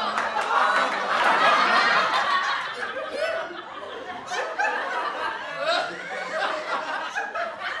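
A group of people laughing together, many overlapping voices chuckling and snickering, loudest in the first few seconds and then tapering to scattered laughs.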